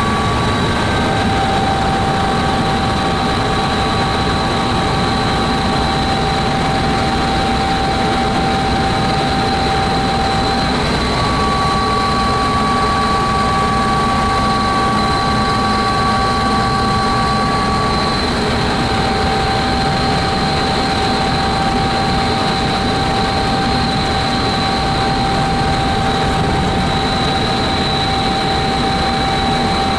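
Helicopter turbine engine and rotor running steadily, heard from aboard, with a constant high whine over a dense engine noise.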